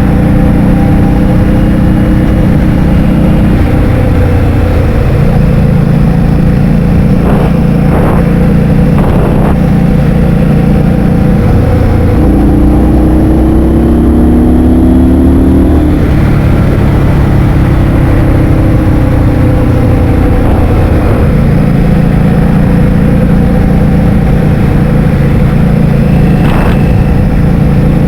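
Heavy wind buffeting the microphone while riding, over a scooter's motor whose pitch shifts up and down, rising for a few seconds about halfway through.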